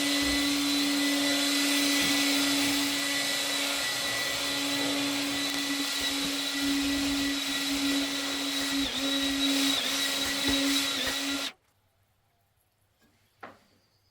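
Handheld air blower running steadily with a constant motor whine while blowing dust out of the inside of an aerated-concrete fireplace surround, then switched off abruptly near the end, followed by a faint click.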